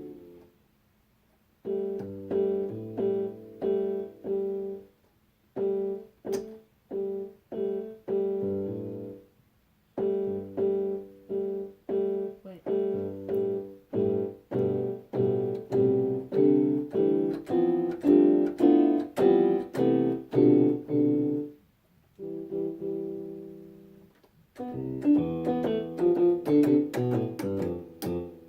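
Piano keyboard played in short, simple phrases of single notes and chords, about two to three notes a second, stopping and starting again several times.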